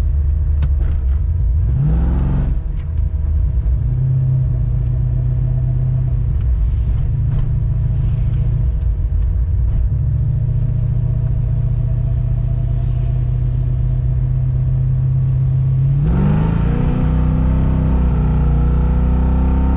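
Holden VL Turbo's 3.0-litre turbocharged straight-six (RB30ET) running. The revs rise about two seconds in, settle to a steady run, then climb again near the end and stay higher.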